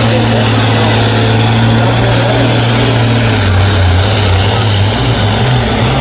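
Engine of a pulling tractor or truck running loud at high revs under load. Its pitch drops slightly about three and a half seconds in and then wavers.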